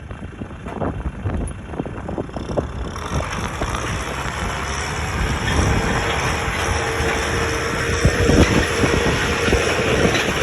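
A heavy vehicle running and rattling, growing louder, with a steady whine that comes in about halfway through.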